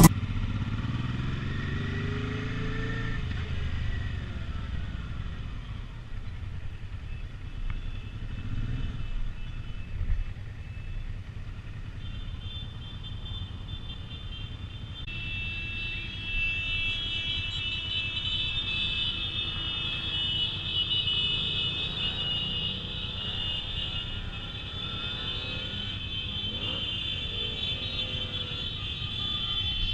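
Motorcycle engines running with a steady low rumble, picked up by a GoPro microphone; the pitch rises over the first few seconds as a bike gathers speed. A steady high whine joins about twelve seconds in and grows louder a few seconds later.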